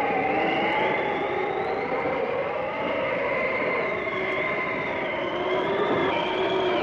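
Howling blizzard wind: a steady rush with several whistling tones that slowly rise and fall in pitch.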